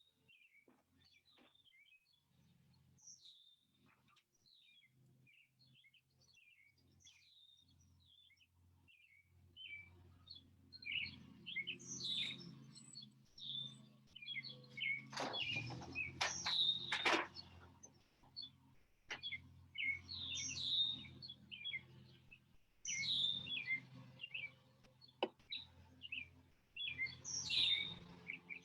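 Wild birds chirping and singing outdoors, faint and sparse at first, then busier and louder from about a third of the way in. A few sharp clicks come around the middle.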